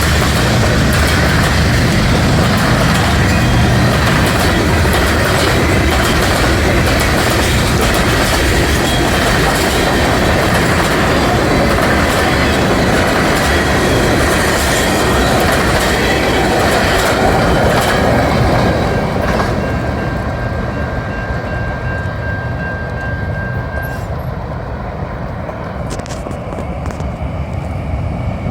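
A train running past, loud, with wheels clacking over the rails and a low engine rumble, then fading away after about 19 s. A thin steady wheel squeal is heard for a few seconds near the end.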